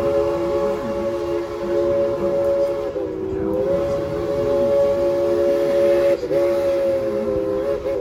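Steam locomotive's chime whistle sounding a chord of several tones in long, nearly continuous blasts, with brief breaks about three and six seconds in, the pitch sliding up as each blast opens.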